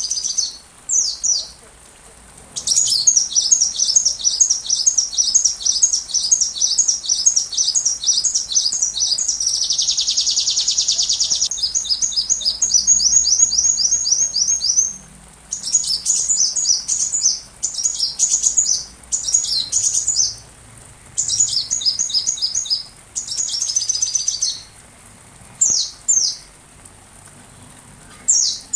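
Sunbird song: bursts of rapid, high-pitched chirps and trills with short pauses between them, and one dense buzzy trill about ten seconds in.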